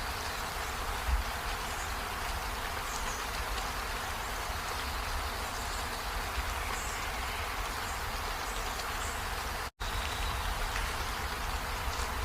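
Steady rain falling, an even hiss, with one brief total dropout about ten seconds in.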